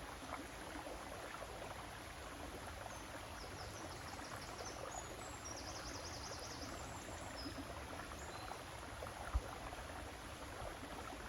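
River water flowing steadily, a continuous rushing and babbling. Faint high chirps come and go through the middle, and a brief low thump sounds about nine seconds in.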